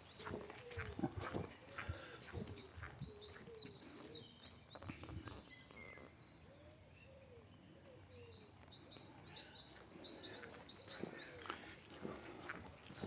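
Several small birds chirping and singing in short high notes, with a few lower, rising-and-falling calls among them. Footsteps on a path keep up a steady beat that fades for a few seconds midway and picks up again near the end.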